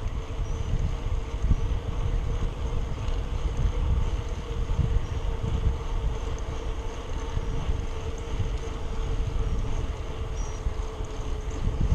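Wind buffeting the microphone of a camera carried on a moving bicycle, a rough gusting rumble, with a steady faint hum underneath.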